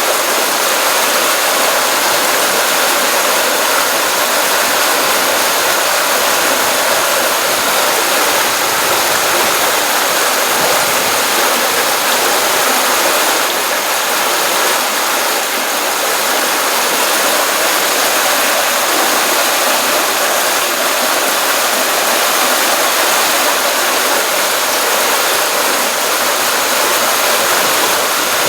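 Stream water running and splashing steadily, a continuous rushing with no breaks.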